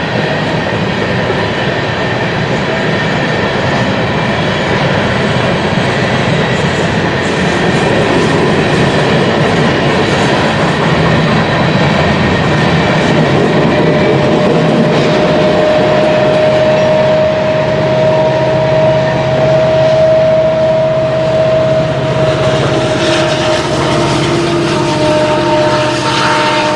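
Freight train rolling past close by, its railcars running steadily over the rails. A single steady whine joins in around the middle and holds to near the end.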